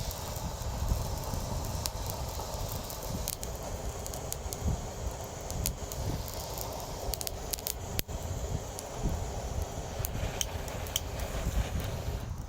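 Charcoal cooking fire crackling, with scattered small sharp pops over a steady low rumble.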